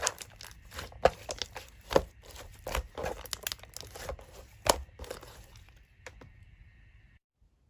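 Slime being squished and pulled by hand, giving a run of sharp crackling clicks and pops that thin out and then stop abruptly near the end.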